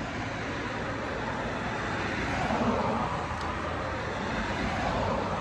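Steady rush of wind and road noise from a motorcycle underway, with no distinct engine note.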